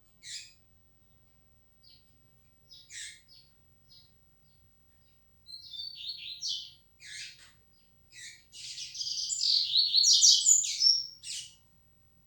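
A male double-collared seedeater (coleiro) singing in the baiano song style: a few short, scattered high chirps, then a longer phrase about halfway through and a loud, rapid run of song near the end.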